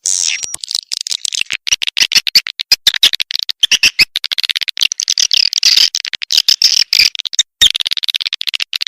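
Recorded swiftlet calls, a rapid, dense stream of high chirps and buzzy twitters with many brief gaps. It is the kind of call track played to lure swiftlets into a nesting house.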